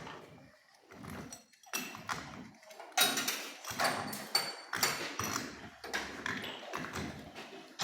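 Hand tools working on steel pipe: irregular metallic knocks and clicks, a few a second, some with a short ring.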